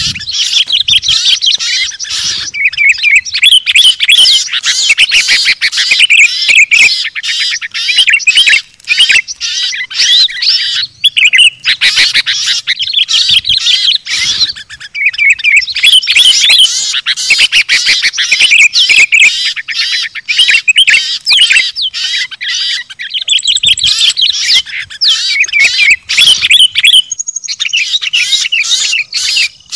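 Many small songbirds chattering and calling at once in a dense, busy chorus of rapid chirps and trills, with a few brief lulls: a bird-lure recording of excited small birds, used to draw wild birds down.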